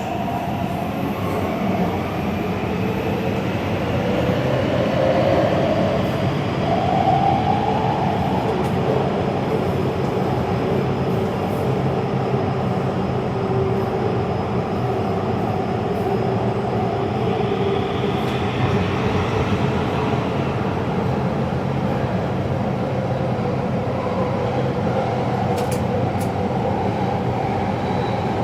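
Taipei Metro Zhonghe–Xinlu line train running between stations, heard from inside the car: a steady rumble of wheels on rail, with tones gliding up and down over it.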